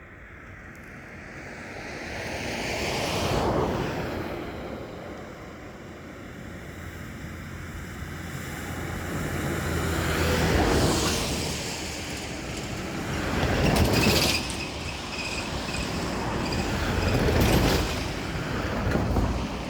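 Vehicles passing one after another, each swelling up and fading away, about five times.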